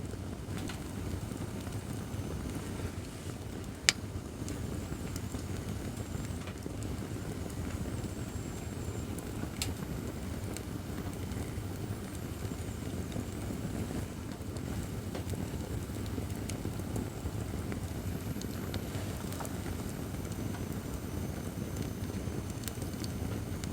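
Acacia firewood burning in a campfire stand: a steady low rush of flame with light crackling, and one loud sharp pop about four seconds in, with a smaller pop near ten seconds.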